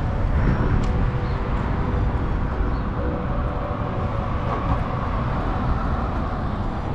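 City street ambience: a steady wash of traffic noise with a low rumble throughout.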